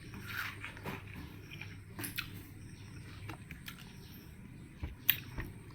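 A person eating watermelon: soft wet mouth clicks and smacks of biting and chewing, scattered through the stretch, with a sharper one about five seconds in.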